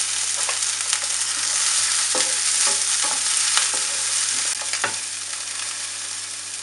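Chopped red pepper sizzling in hot oil in a nonstick frying pan, with a spatula scraping and stirring through the pieces. The sizzle fades a little near the end.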